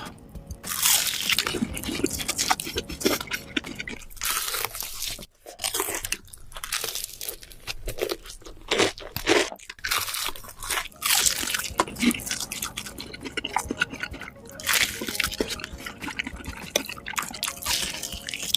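Close-miked eating: crunchy bites and chewing in irregular bursts.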